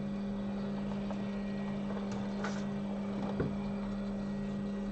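Steady electrical hum from the repair bench equipment, with one faint click about three and a half seconds in.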